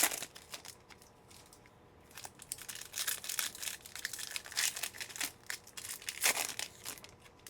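Trading card pack wrappers being torn open and crinkled, in several short bursts of crackling, the loudest right at the start and about six seconds in.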